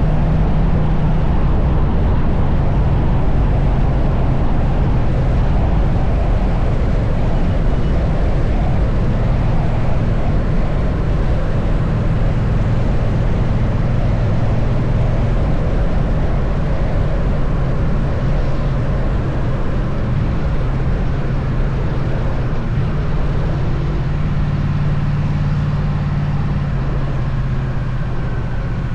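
Triumph Bonneville T100 motorcycle engine running steadily at cruising speed, with wind and road noise over the microphone.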